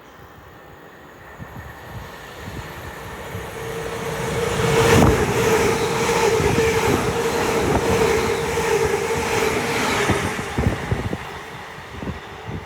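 Electric passenger train, which the spotter takes for a Class 350 unit, passing through the station. Its noise builds over a few seconds and peaks in a loud rush about five seconds in as it passes. A steady hum and a run of wheel clicks over the rail joints follow, then the sound fades near the end.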